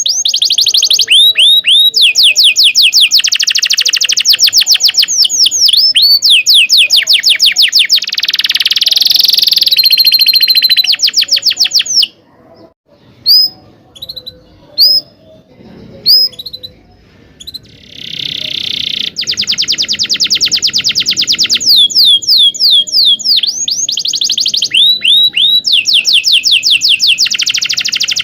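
Domestic canary singing a long song of fast trills, the same high sweeping note repeated many times a second. About twelve seconds in it breaks off for several seconds, giving only a few single chirps, then goes back into rolling trills.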